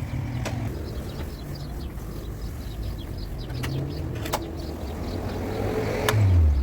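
Steady low rumble with four sharp knocks spread far apart through it; near the end a low tone swells and falls away.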